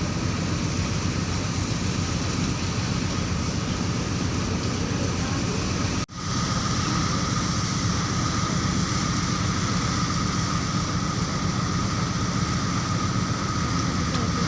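Steady engine rumble and rushing noise aboard a passenger ship, with a thin steady hum above it. It cuts out for an instant about six seconds in.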